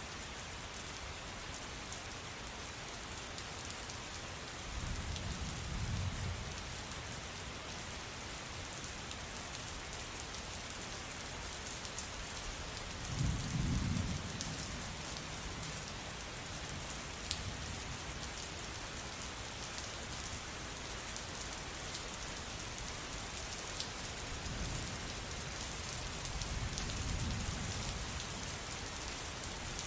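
Steady rain falling on a surface, with scattered sharp drop ticks. Thunder rumbles low three times, the loudest about halfway through.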